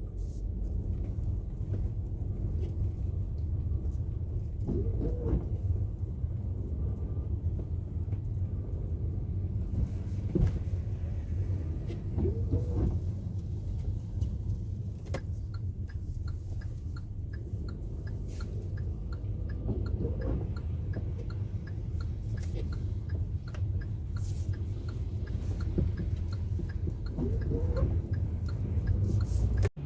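Steady low road and engine rumble inside the cabin of a moving Kia Seltos with a dual-clutch gearbox. The engine note briefly rises and falls about four times, and a regular ticking of about two a second runs for several seconds midway.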